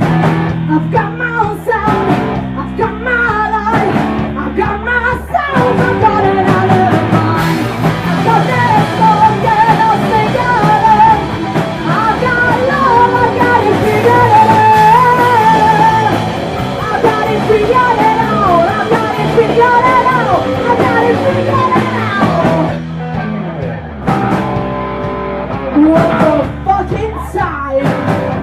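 Live punk rock band playing loud, with electric guitar, bass and drums. A wavering lead melody rides over the band through the middle, then drops away for a moment about 22 seconds in before the full band comes back.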